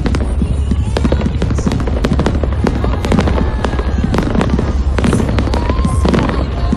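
A firework display crackling and popping, many rapid sharp cracks running into each other over a steady low rumble.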